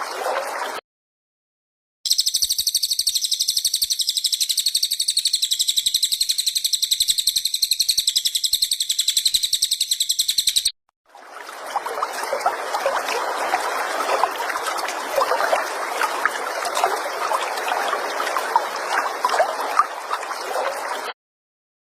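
Recorded songbird calls for bird-song training: a very high, rapid, even trill lasting about eight seconds. After a short break it gives way to about ten seconds of a denser, lower crackling chatter that cuts off abruptly near the end.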